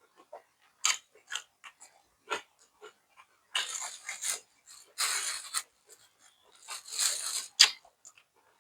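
Close-up mouth sounds of someone eating: crunching and chewing food, with wet smacks and clicks and a few louder crunching bursts in the second half.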